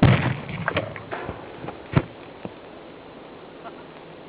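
Gas explosion of a handcart rigged with a fuel canister and two-stroke mix: a sudden loud blast at the start that dies away over about a second with crackling, then a second sharp bang about two seconds in and a smaller knock just after.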